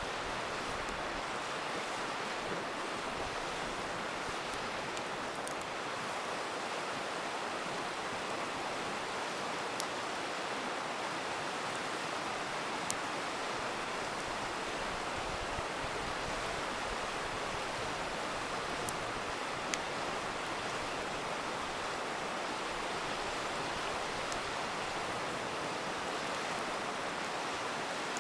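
River water rushing steadily, with a few sharp pops from a crackling campfire scattered through it.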